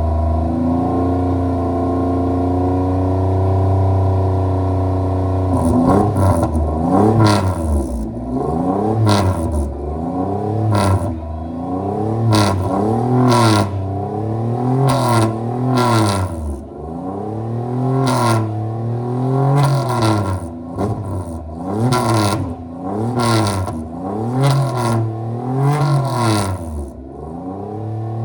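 Mitsubishi Pajero rally car engine idling steadily, then revved in short blips about every second and a half for the rest of the time, with sharp cracks at many of the peaks.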